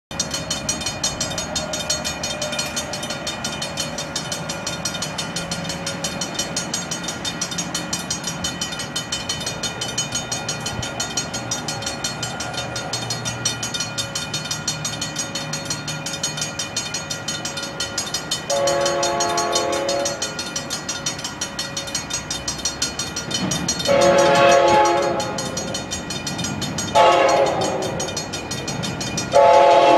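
Grade-crossing bell ringing rapidly and steadily as an Amtrak Pacific Surfliner train approaches. Past the middle, the train's chime horn sounds the crossing signal: two long blasts, a short one, then a long one that runs on.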